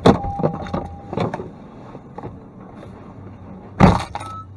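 Road vehicle collision: a run of bangs and crunches over a low engine hum, with the loudest bang near the end.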